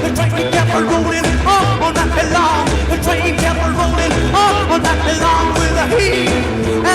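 1950s rockabilly band recording: distorted electric guitar, upright bass and drums driving a fast steady beat, with a male voice singing.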